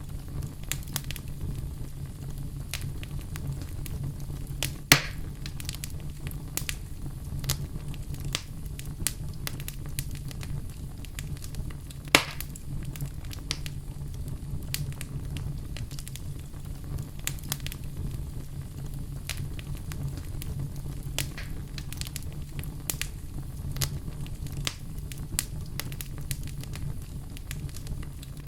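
Wood fire crackling in a fireplace, with a steady low rumble under many small snaps and two loud sharp pops, about five and about twelve seconds in.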